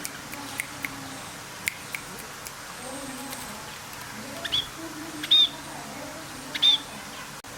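A bird giving three short, loud calls about a second apart, after a few sharp clicks.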